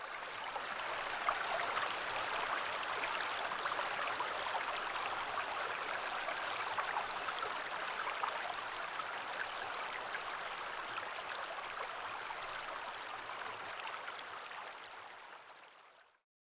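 River water rushing steadily, an even wash of flowing-water noise that fades out near the end.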